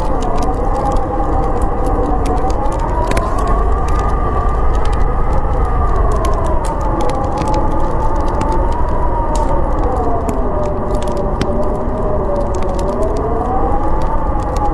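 Howling snowstorm wind, a steady rush with a whistling tone that slowly rises and falls in pitch, over the scattered crackle of a wood fire.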